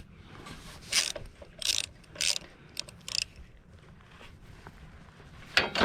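Hand tools working on a lawn tractor engine: about five short clicking, rattling bursts in the first three and a half seconds, then a sharp click near the end.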